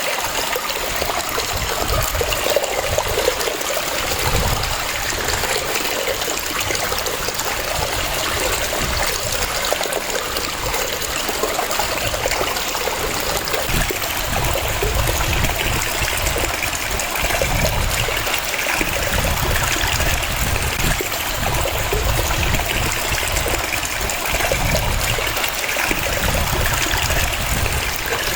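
Waterfall: a steady rush and splash of falling water, with an uneven deeper rumble underneath.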